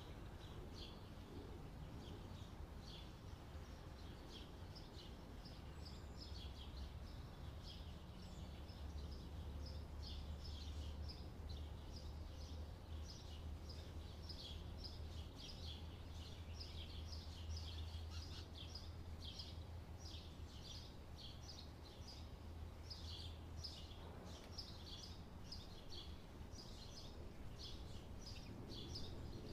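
Birds chirping in quick, repeated short calls, with a low steady hum underneath.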